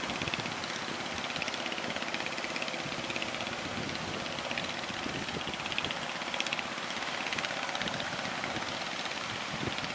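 A fishing boat's engine running steadily under a constant rush of wind and surf.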